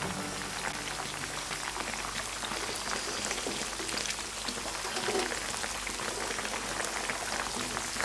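Hot oil sizzling and crackling steadily around a whole chicken shallow-frying in a pan.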